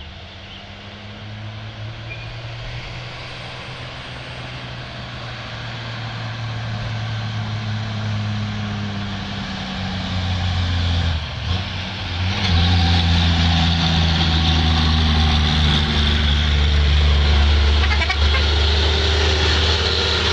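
Diesel dump truck engine labouring up a steep hill, growing louder as it comes closer. The engine note breaks off briefly about eleven seconds in, then comes back louder and steady.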